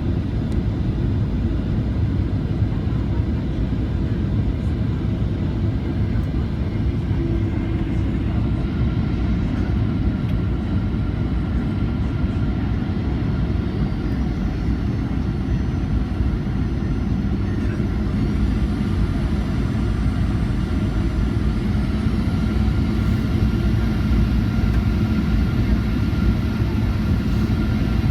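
Cabin noise aboard a Boeing 737-800: a steady low rumble of the engines and rushing air. About two-thirds of the way through, a steady hum joins in and the noise grows slightly louder.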